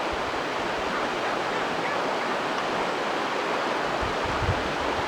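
Waterfall on a mountain river, a steady rush of falling water, with a few low bumps near the end.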